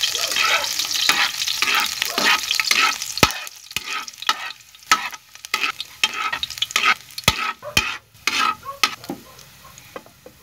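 Chopped garlic sizzling in hot oil in a nonstick pan as it is stirred with a spatula: repeated scraping strokes and a few sharp knocks. The sizzle is loudest in the first few seconds and dies down toward the end.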